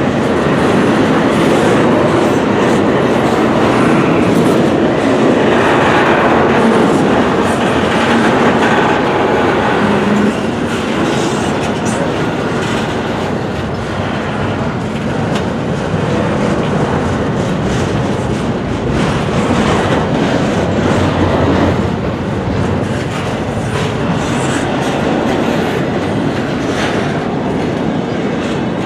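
Double-stack intermodal freight cars rolling past on steel wheels: a loud, steady rumble and rattle of wheels on rail, with scattered clicks as the wheels cross rail joints.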